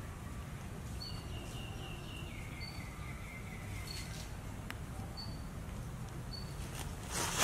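Woodland birdsong over a steady low background rumble: a bird repeats a short high note about once every second and a half, while a thin trill steps down in pitch from about one to four seconds in. A short noisy burst, the loudest sound, comes near the end.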